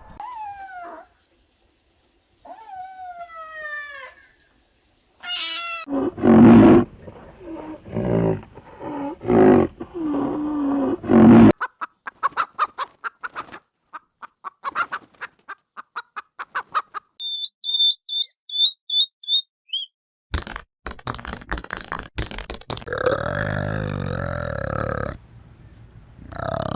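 A run of different animal calls one after another. First come two falling, meow-like wails. Then loud, low grunting roars, a rapid pulsing rattle, a few high chirps, sharp clicks, and a long sustained call near the end.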